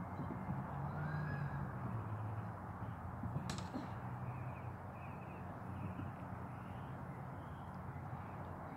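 Outdoor ambience with a steady low rumble, a few short bird calls repeated in a row around the middle, and a single sharp click.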